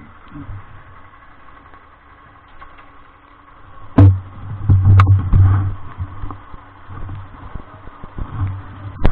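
Vehicle engine noise: a faint steady hum, then about four seconds in a sharp knock and a loud low rumble sets in, with another sharp knock a second later.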